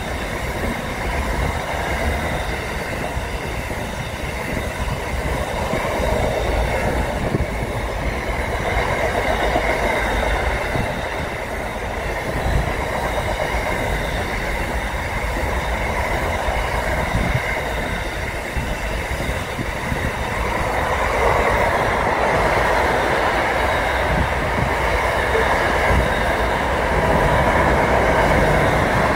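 Freight train wagons rolling past: a steady rumble and rattle of steel wheels on the rails, with a faint high ring. It grows a little louder about two-thirds of the way through.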